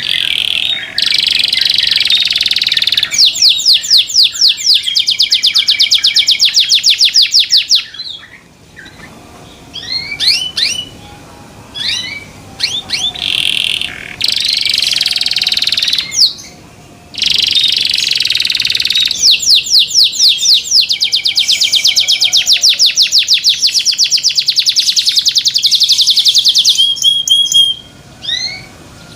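Domestic canary singing loudly: two long song phrases of very fast rolling trills, with short chirped notes and brief pauses between them.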